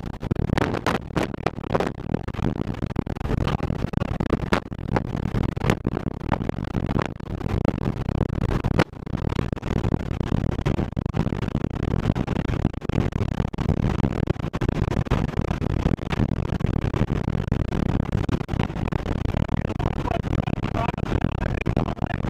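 Tornado wind roaring and buffeting the microphone in a heavy low rumble, with sharp knocks of things striking, most of them in the first few seconds.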